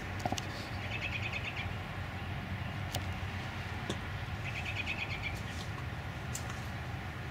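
A small songbird gives a short, rapid trill twice, about a second in and again around five seconds, over a steady low outdoor rumble. No gunshot is heard.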